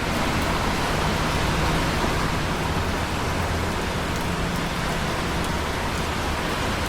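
Steady rain falling: an even hiss of rain with scattered faint drop ticks and a low rumble underneath.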